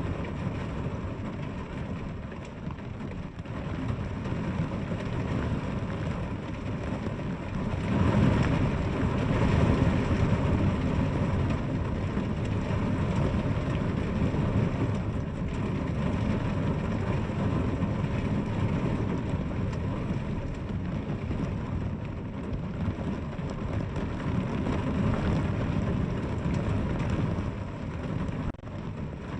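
Steady, heavy rainfall with a low, full rush, swelling louder about 8 seconds in before settling again.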